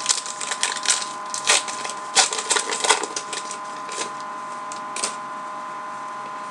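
Crinkling and tearing of a trading card pack wrapper being opened by hand, a quick run of crackles over the first three seconds with a few more around the five-second mark.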